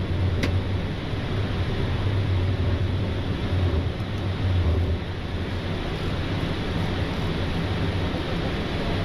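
Steady flight-deck noise of a Boeing 777-300ER in its initial climb: an even rush of airflow over a low engine hum. There is a single sharp click about half a second in.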